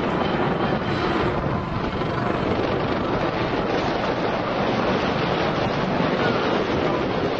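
Strong wind buffeting the microphone: a steady, loud rushing rumble with no distinct tones.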